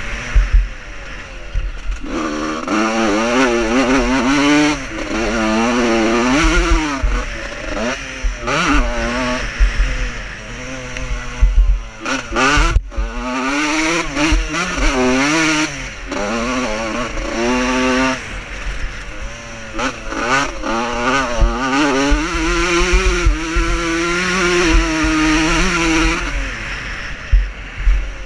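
Vintage motocross bikes racing, several engines revving up and falling back again and again as the riders work through the gears and over the track.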